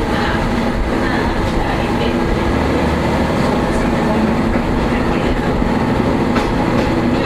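Diesel railcar's engine running steadily, heard from the front of the train, with a few faint clicks.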